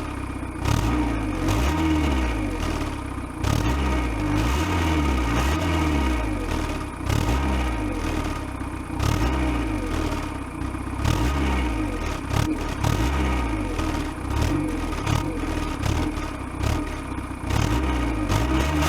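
Diesel car exhaust recorded right at the tailpipe, the engine revved up and back down again and again, about once every second or two. Exhaust gas blows onto the microphone, giving sharp crackling thumps across the sound.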